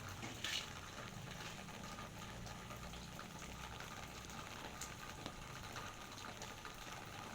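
Steady heavy rain falling, with many scattered drops ticking close by and a brief louder hit about half a second in, over a low rumble.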